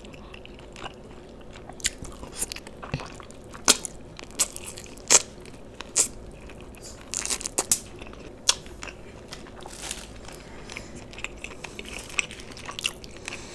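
Close-miked chewing and biting of sauced fried chicken lollipops: wet, sticky mouth sounds with many short sharp clicks and crunches, and sucking sauce off the fingers.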